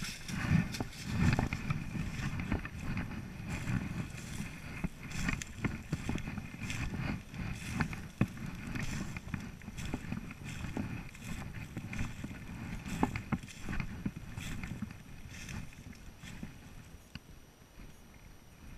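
Footsteps and rustling of someone walking through undergrowth, with irregular crackles and knocks and some handling or wind noise on the microphone; it grows quieter over the last few seconds.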